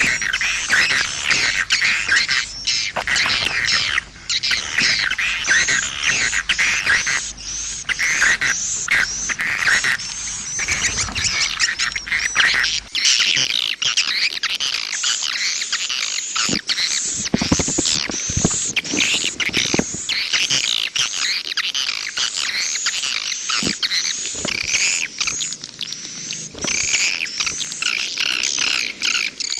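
Swiftlet calling-sound recording ('suara panggil') of the kind played from swiftlet houses to lure edible-nest swiftlets: a dense, unbroken stream of high, rapid chirps and twitters.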